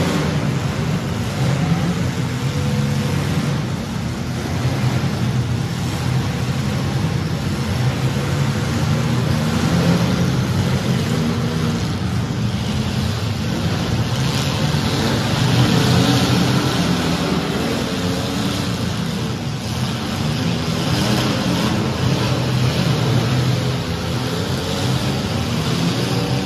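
Several compact derby cars' engines revving and running together at varying speeds, their pitches rising and falling over one another, with a hissing noise swelling briefly past the middle.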